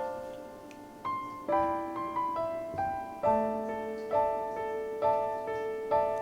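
Background piano music: single notes played one after another in a slow, gentle melody, each ringing and fading.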